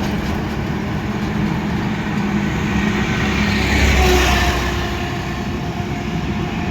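Highway traffic noise, with a vehicle passing close by and growing loudest about four seconds in before fading.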